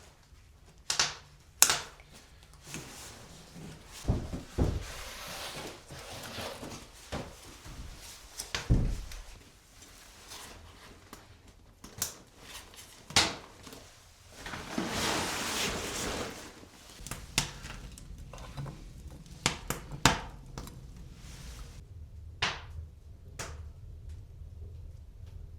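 A string of irregular knocks, thunks and clatters of objects being handled in a small room, with a few longer rustling stretches in between.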